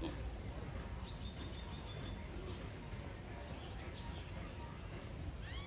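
Small birds chirping over a steady low background rumble: a short trill about a second in and a run of high chirps around four seconds in.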